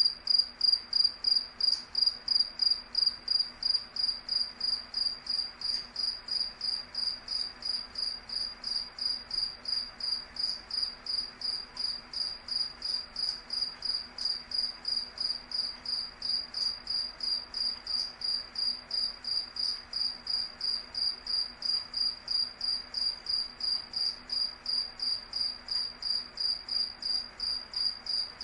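A cricket chirping in a steady, even rhythm of about two to three high-pitched chirps a second.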